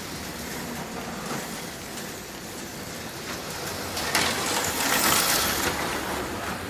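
HO-scale slot cars running on a plastic slot track, a steady whirring hiss of small electric motors and tyres. About four seconds in it grows louder and brighter for a couple of seconds as a car passes close.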